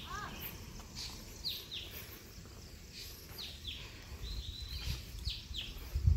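Birds calling outdoors: a repeated pair of quick, high, downward-sweeping notes about every two seconds, with one short rising-and-falling call about a quarter of a second in. Low thuds of footsteps on the paving come in near the end, the loudest just at the close.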